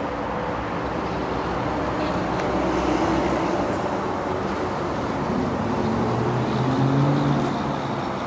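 Motor vehicle engine running, its pitch rising and falling, swelling about three seconds in and loudest around seven seconds in.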